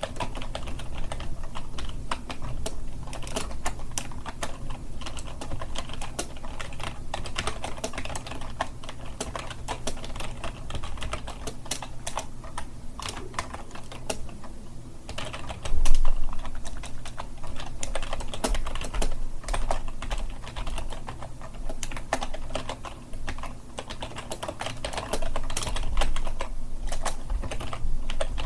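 Computer keyboard being typed on fast and without pause, a dense, uneven patter of key clicks. One louder, deeper knock comes about halfway through.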